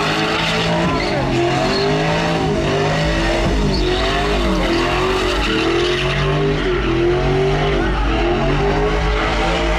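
Truck engine revving hard, its pitch rising and falling over and over, with tyres spinning and squealing in a burnout.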